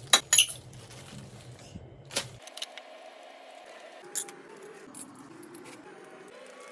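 Sharp clicks and clinks of small hard objects being handled: two loud ones in the first half second, then scattered lighter ones.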